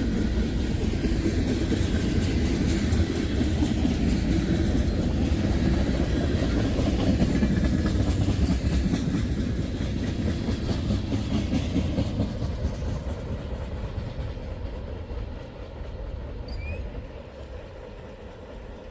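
Freight train cars rolling past, steel wheels clicking over the rail joints. The sound fades steadily over the last several seconds as the train moves away.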